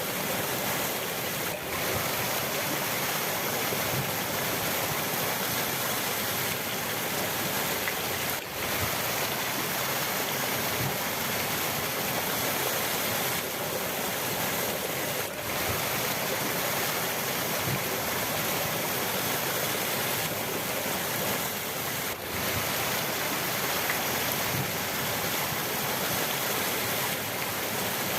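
River water rushing steadily, with a brief dip in level about every seven seconds.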